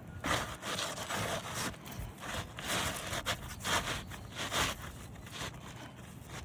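A run of irregular scraping and rustling strokes for about five seconds, then dying away to background.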